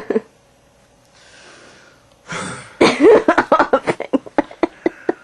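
A person's non-speech vocal outburst. A breathy burst is followed by a rapid run of short pitched pulses that die away over about two seconds.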